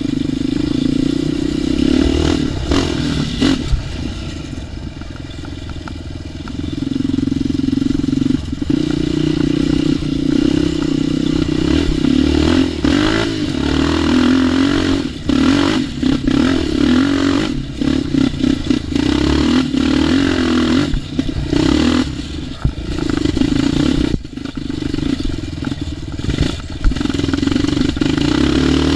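ATV engine being ridden, the throttle opened and closed so the revs rise and fall over and over, with scattered knocks and rattles from the machine on rough ground.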